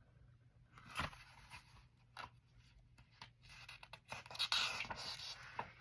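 Paper of a picture book being handled: a few light clicks and scratches, then a longer rustle about four seconds in.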